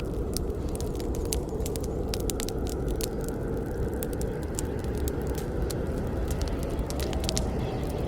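Wood campfire burning: a steady low rush of flames with frequent, irregular sharp crackles and pops from the burning wood.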